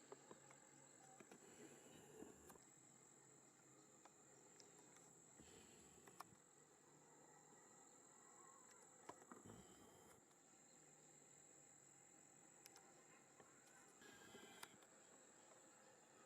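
Near silence with a faint, steady, high-pitched insect trill, as of crickets in the grass, and a few faint small clicks.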